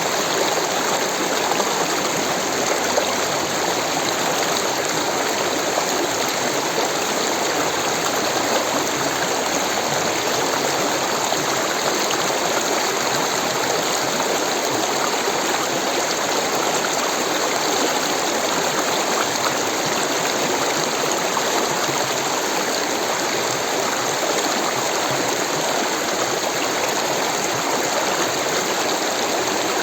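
Rushing water: a steady, even rush with no pauses or changes.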